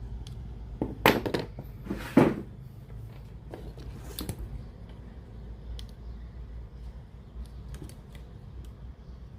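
Sharp clicks and knocks of small hard objects being handled, loudest about one and two seconds in, with fainter ticks later, over a steady low hum.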